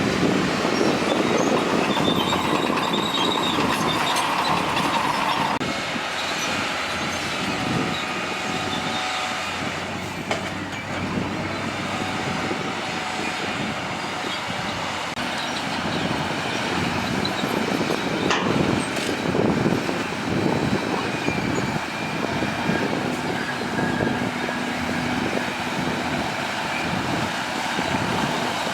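Heavy earthmoving machinery working: diesel engines running under a steady mechanical clatter, with a high metallic squeal over it, of the kind steel bulldozer tracks make.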